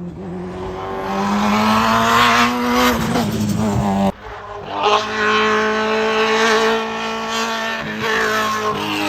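Race car engine under hard acceleration, its pitch climbing through the revs. About four seconds in the sound breaks off abruptly, and then a race car engine runs at steady high revs.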